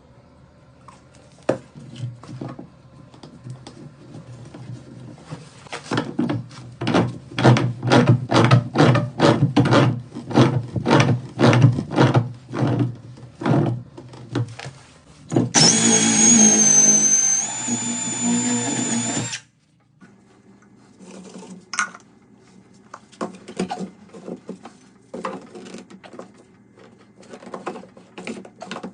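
Hand and tool work on plumbing pipes: repeated scraping strokes about twice a second, then a few seconds of steady noise with a high whine that starts and stops abruptly, then scattered clicks and scrapes.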